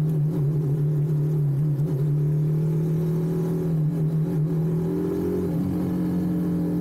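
Motorcycle engine running steadily at constant revs, its note holding one pitch.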